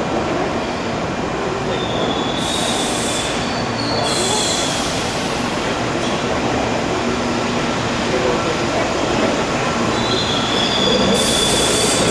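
Keihan electric train running along the station platform tracks with a steady rumble, its wheels squealing high twice, a couple of seconds in and again near the end, with short bursts of hiss.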